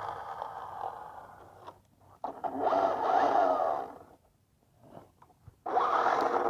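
Traxxas Hoss RC monster truck's electric motor and drivetrain whining in bursts as it drives. The first burst dies away in under two seconds and a second one rises and falls in pitch. After a short gap it runs again near the end. The truck is making an odd noise that the driver thinks may come from the centre differential, though he is not sure.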